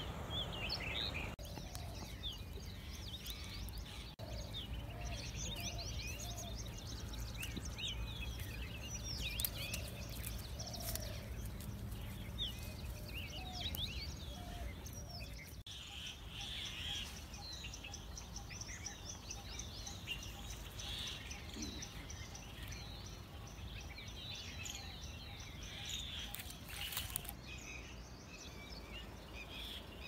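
Small birds chirping and twittering on and off, many short high notes and quick glides, over a steady low outdoor rumble.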